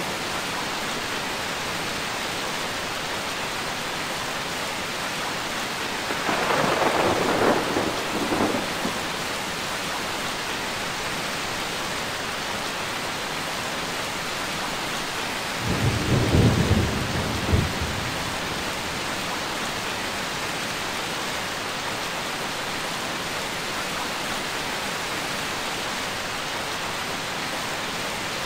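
Steady rain falling, with two rolls of thunder: one about six seconds in, and a deeper, lower rumble about sixteen seconds in.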